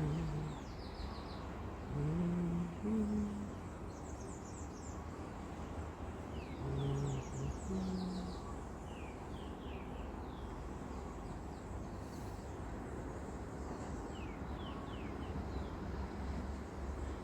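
Short, high, falling bird chirps repeat over a steady low rumble of wind and sea. A few low, pitched animal calls sound in the first half.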